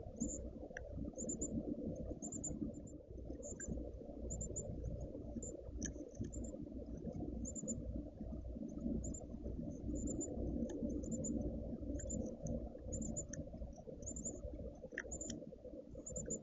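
Outdoor ambience on a camera microphone: a steady low rumble with short, very high chirps repeating irregularly about every half second.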